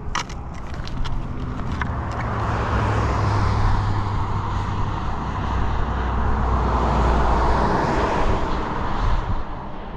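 A road vehicle driving past: a low engine hum and tyre noise that swell to a peak through the middle and fade away near the end, the engine's pitch dropping slightly as it goes by.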